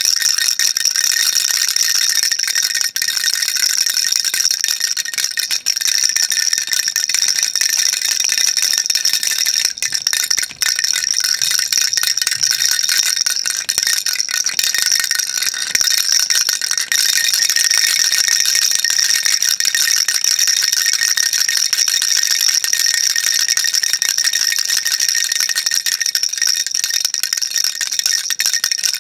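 Baby rattle shaken continuously, a dense, even, high-pitched clatter of small beads inside it, with a brief falter about ten seconds in.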